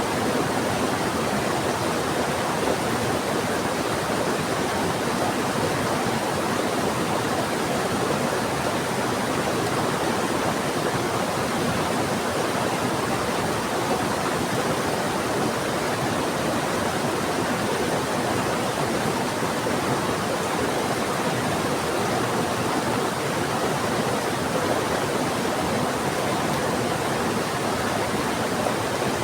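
Fast-flowing river water rushing together with heavy rain, a steady, unbroken wash of water noise that does not change.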